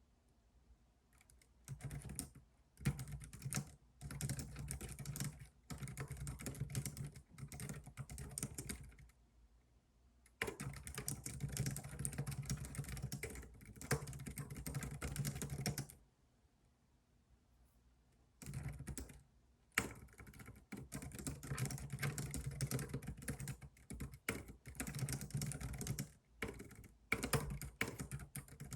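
Typing on a computer keyboard: fast runs of key clicks in three stretches, pausing about nine seconds in and again about sixteen seconds in.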